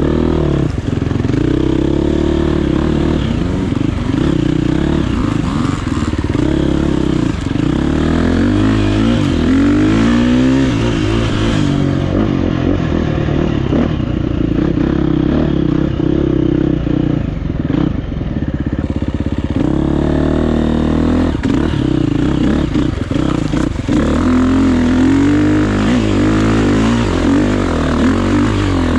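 GasGas EX350F four-stroke dirt bike engine on the throttle, its revs rising and falling repeatedly as it is ridden along a trail, with scattered knocks and clatter from the bike.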